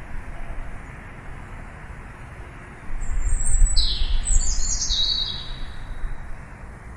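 A bird calling: a burst of quick, high chirps sliding downward, about three to five seconds in. Underneath is a steady hiss and a low rumble that swells at the same moment.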